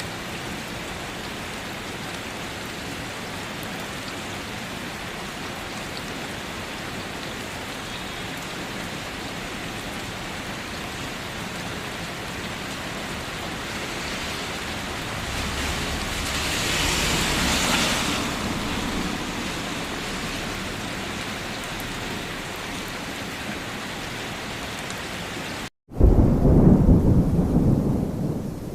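Steady heavy rain falling, swelling louder for a few seconds a little past the middle. Near the end it cuts out briefly, and a loud, low rumble of thunder follows.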